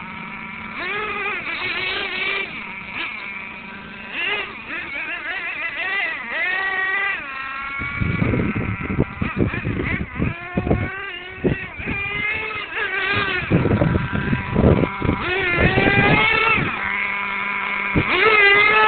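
Small nitro engines of RC monster trucks revving up and down, a high-pitched whine that climbs and drops again and again as the trucks drive. From about eight seconds in, loud bursts of rushing noise break in over the engines.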